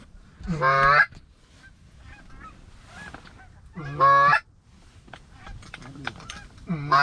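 Three loud goose-like honks, each about half a second long and roughly three seconds apart. Fainter, higher bird calls sound between them.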